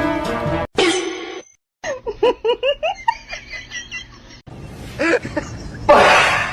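Music cuts off near the start, then a person laughs in quick repeated bursts, about four a second, with more laughter and a short burst of noise near the end.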